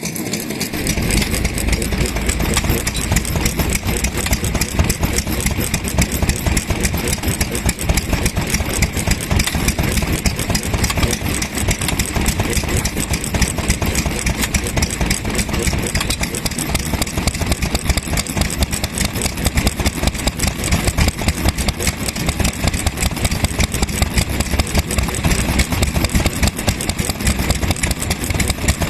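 Vintage stationary kerosene engine running steadily, with a rapid, even exhaust beat.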